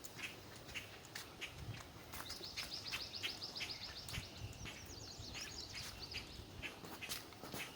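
A small marsh songbird singing a rapid, even trill of high notes lasting about three seconds, amid scattered short clicks.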